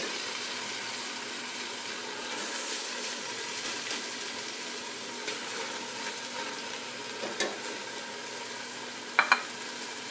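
Pieces of raw meat sizzling as they are put by hand into a pot of onions frying in fat, a steady sizzle with a few soft knocks and two sharp knocks near the end.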